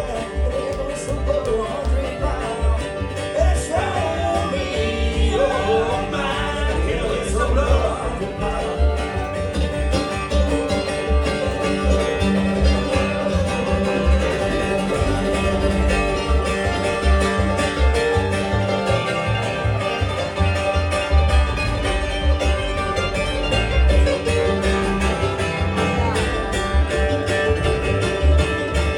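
Live bluegrass band of banjo, guitar, mandolin, fiddle and bass playing at a fast, driving tempo, the bass keeping a steady beat under the picking.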